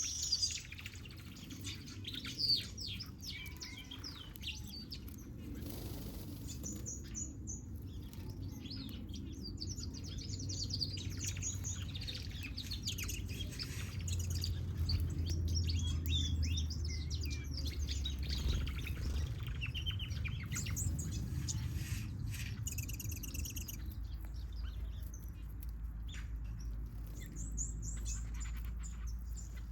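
Mixed aviary finches and softbills chirping and twittering, many short overlapping calls and trills, over a steady low hum.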